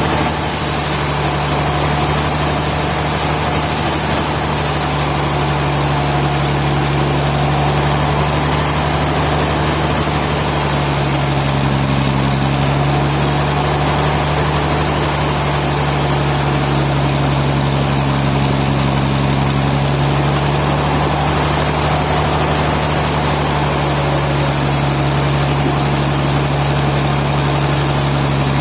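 Sawmill machinery running steadily: a continuous engine-like hum with a constant low tone over a noisy whir.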